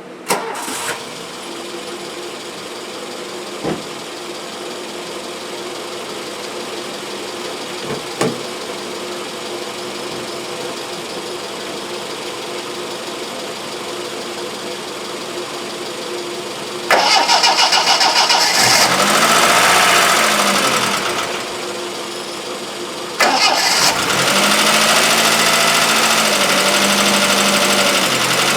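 Austin Princess engine firing up on a jump start after long standing and settling into a steady idle, with two light clicks. It is then revved twice in the second half, the pitch rising and falling each time.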